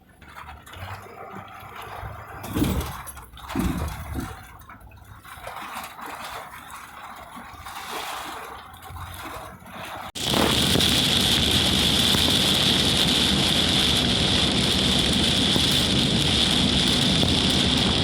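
Irregular sloshing and gurgling of water. About ten seconds in, a sudden cut to a loud, steady rush of a vehicle driving in heavy rain.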